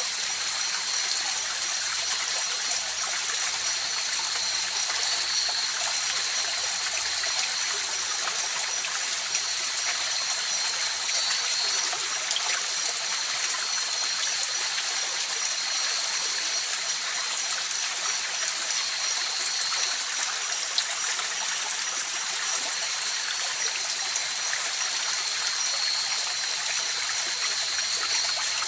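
River water flowing and trickling steadily, with a continuous high-pitched tone running over it.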